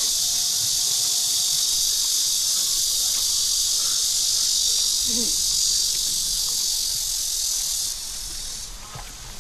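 A dense, steady chorus of cicadas, a high buzzing hiss that drops down about eight seconds in.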